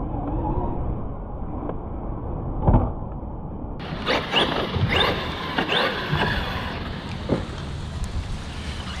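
Electric motors of RC trucks whining in several quick rising sweeps as they accelerate, over a steady low rumble, with one short loud thump a little under three seconds in.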